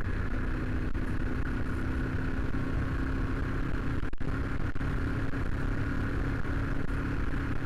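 Motorcycle engine running steadily while riding along, heard through a helmet-mounted camera with wind and road rumble; the sound cuts out for an instant about four seconds in.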